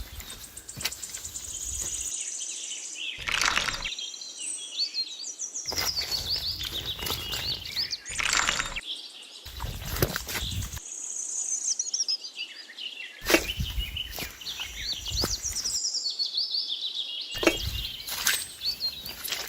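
Small birds chirping and twittering, many short high calls and quick pitch glides, over an outdoor background that drops in and out abruptly several times.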